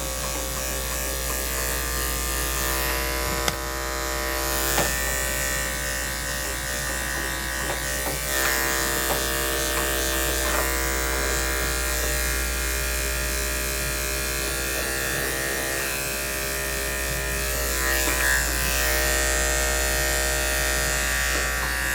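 Electric dog grooming clippers running steadily, their motor humming as the blade shaves through a puppy's badly matted coat. The matting pulls on the skin.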